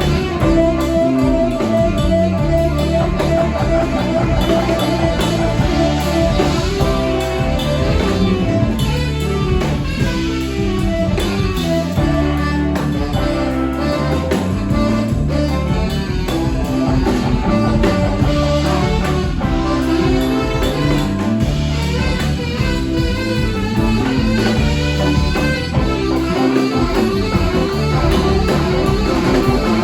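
Live band music: electric guitar playing over bass and a drum kit in a steady blues-rock groove, with no singing.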